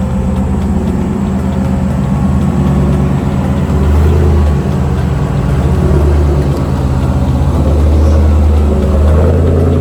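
Jeep Wrangler JK engine running at low trail speed, the steady drone swelling a few times as the revs rise and fall.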